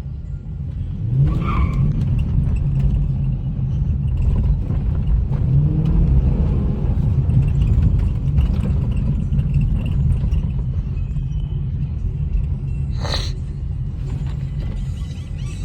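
Car engine and exhaust rumbling steadily, growing louder about a second in. A brief sharp noise comes about 13 seconds in.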